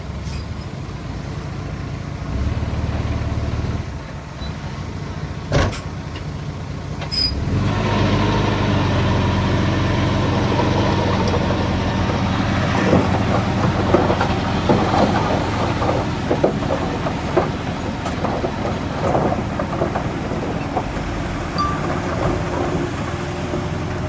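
Heavy diesel earthmoving machinery running, with a single sharp knock about five and a half seconds in. About seven seconds in the engine grows louder as it comes under load, and scattered clanks and scraping sound over the steady engine note.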